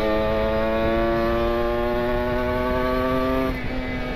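Kawasaki Ninja 150 RR two-stroke single with an R9 aftermarket exhaust, pulling under throttle with its pitch slowly rising, then easing off about three and a half seconds in. The engine is warmed up to working temperature.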